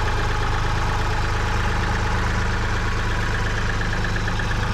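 Tractor engine idling steadily while it holds a lifted load.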